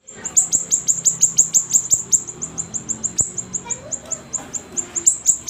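Siri-siri songbird singing in full voice: a fast, unbroken run of short, high, downward-sweeping chirps, about six a second.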